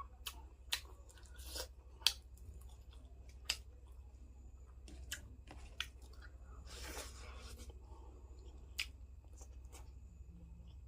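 Close-miked eating sounds: irregular sharp clicks and a couple of longer crunchy chews, over a steady low hum.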